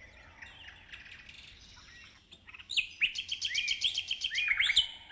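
Songbirds chirping: faint, scattered calls at first, then a loud, rapid run of repeated chirps from about three seconds in.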